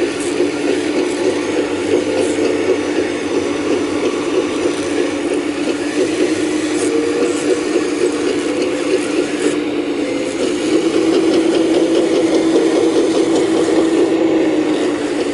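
Geared drive of a radio-controlled construction machine working dirt: a steady gear whine with a fast rattling clatter, a little louder about two-thirds of the way through.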